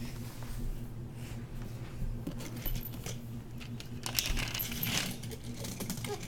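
Small plastic clicks and rattles of Lego pieces being handled and set up, scattered, with a busier cluster about four seconds in, over a faint steady hum.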